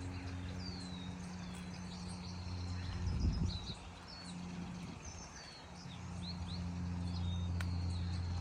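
Several small birds chirping and twittering with quick, sweeping notes, over a steady low mechanical hum. A brief low rumble about three seconds in.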